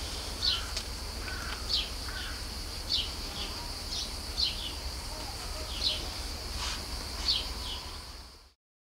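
Outdoor summer ambience: a small bird gives short falling chirps about once a second over a steady high insect buzz, fading out near the end.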